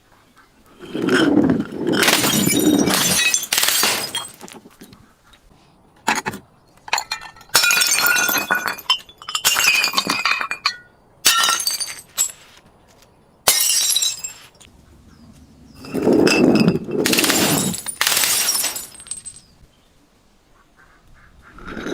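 Glass bottles being broken and crushed: a series of crashing, crunching bursts, each a second or two long, with short quiet gaps between them.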